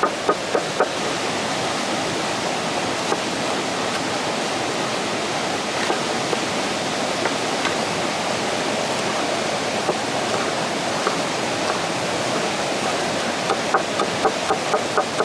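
Steady rush of flowing water. A run of quick rhythmic knocks, about three a second, sounds in the first second and starts again near the end.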